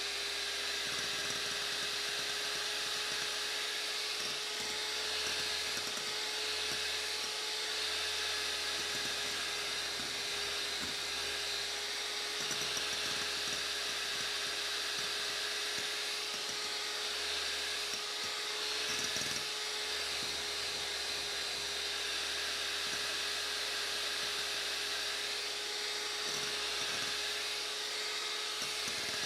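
Electric hand mixer running steadily at high speed, its beaters whipping warm eggs and sugar into a thick foam, with a constant motor hum.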